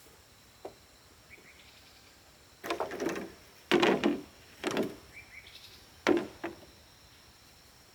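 Wooden boards being handled, with a faint knock followed by four louder clattering, scraping knocks spread over a few seconds. A faint steady high buzz of insects runs underneath.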